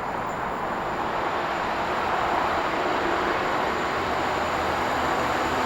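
Class 66 diesel-electric freight locomotive approaching with its train, the noise growing steadily louder.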